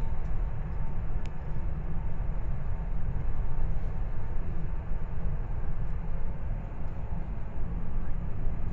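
Steady low rumble of a train running along the line, heard from inside the carriage.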